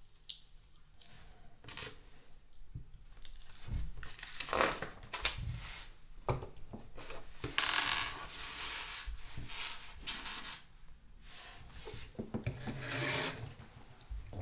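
Hands handling LEGO plastic pieces during a build: three longer scraping rubs of plastic sliding over the work surface, with scattered light clicks between them.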